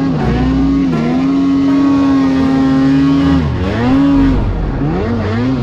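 Snowmobile engine revving under throttle: the pitch climbs and holds high for a couple of seconds, drops sharply about three and a half seconds in, then rises and falls several more times.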